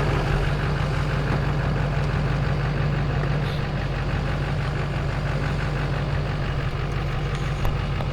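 Pickup truck engine idling steadily, running evenly just after being got to start.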